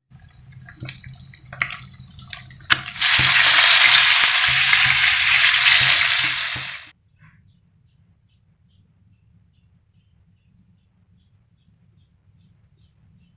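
Chicken frying in hot oil: after a few light clicks and knocks, a loud, even sizzle starts about three seconds in and cuts off abruptly about four seconds later. Faint, quick high chirps about twice a second follow.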